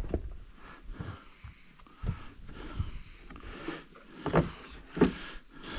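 Irregular knocks and handling noise as fishing gear is moved, with a few short sniffs or breaths close to the microphone.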